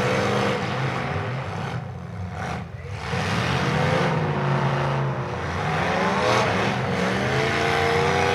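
Demolition derby car engines revving hard, their pitch rising and falling as the cars push and ram around the track, with two brief lulls a couple of seconds in.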